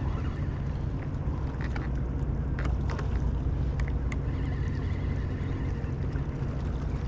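Steady low rumble of a boat engine running, with a constant low hum and a few faint light ticks.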